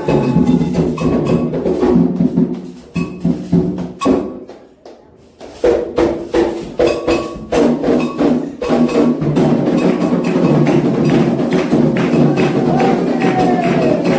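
Candomblé ritual percussion: atabaque hand drums with a struck bell keeping the rhythm. The playing thins and nearly stops a few seconds in, then starts up again at full strength.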